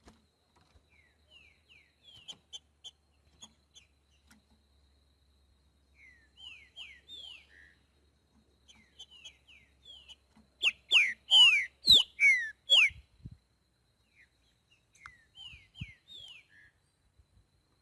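Green-winged saltator (trinca-ferro) singing in the 'boiadeiro' song style: scattered short, falling whistled notes, then a loud phrase of sweeping whistles about halfway through.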